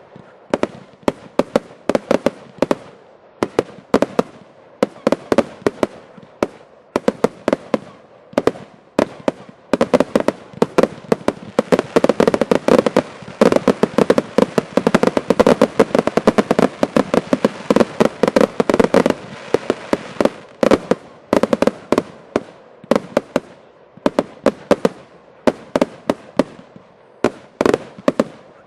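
Fireworks finale: a barrage of shells bursting with sharp bangs. The bangs come in quick groups at first. About a third of the way in they thicken into a near-continuous rattle, which thins out again toward the end.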